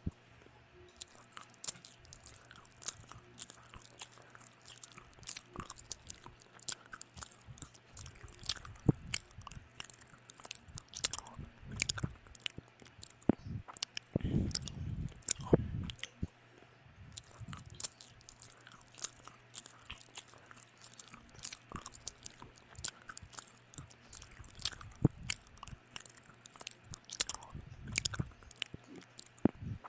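A person eating close to the microphone: chewing and biting with many short, wet clicks and smacks, and a few louder mouthfuls.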